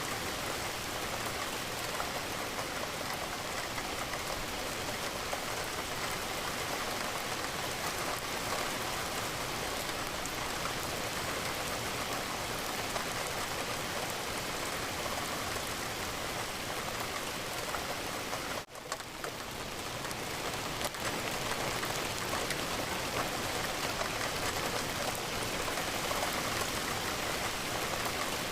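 Steady rain against a window, an even dense hiss of drops. About two-thirds of the way through it dips sharply for a moment and swells back over a couple of seconds.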